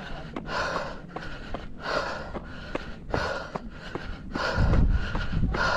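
Hard, rhythmic breathing of a runner on a steep uphill climb, a loud breath about every two-thirds of a second, with light footstep clicks between breaths. About four and a half seconds in, a low rumble of wind on the microphone is briefly the loudest sound.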